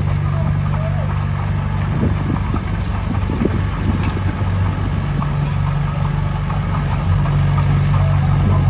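Diesel engine of a construction machine running steadily, with a run of clanks and knocks about two to four seconds in.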